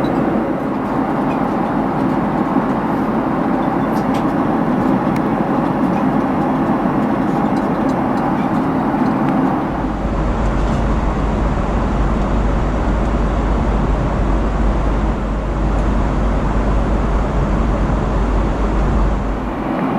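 Steady cabin noise of a Boeing 767-300 airliner in flight: the constant rush of air and engine noise. About halfway through the sound changes, with a heavier low rumble coming in.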